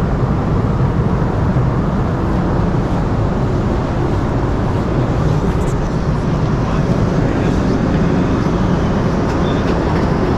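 Steady in-flight cabin noise inside a Boeing 747-400 airliner: an even, low rumble with no breaks.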